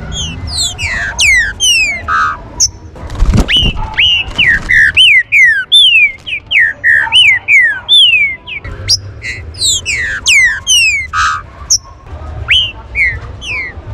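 Green-winged saltators (trinca-ferro) singing: a rapid, jumbled string of short whistled notes that each slide steeply down in pitch, some overlapping. A brief low thud a little over three seconds in.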